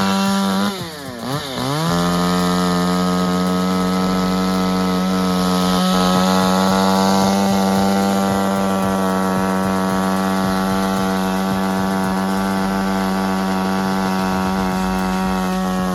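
Chainsaw running at high revs in one steady tone. About a second in the revs drop sharply and climb back, and near the end they start to fall away again.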